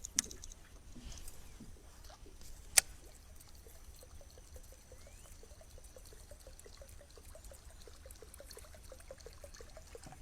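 Faint trickling water, with a sharp click about three seconds in and then a quick, even run of soft ticks.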